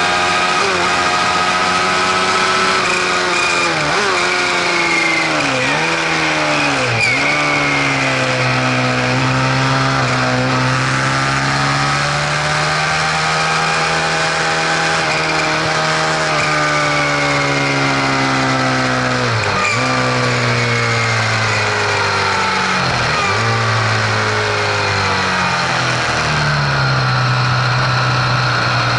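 Vehicle engine running, its pitch rising and falling slowly with several quick dips and recoveries, alongside a faint steady high whine. The owner is asking about this mechanical noise as one they don't recognise.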